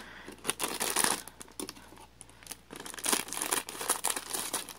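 Snack bag crinkling and rustling in bursts as it is handled and rummaged through.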